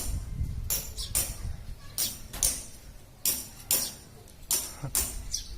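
Bar-winged prinia (ciblek) calling: a rapid, irregular series of short, sharp, high-pitched notes, about two or three a second.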